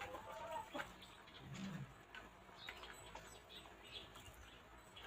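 Hens clucking softly: a short pitched call at the start and a low throaty cluck about a second and a half in, followed by scattered short, faint chirps and ticks.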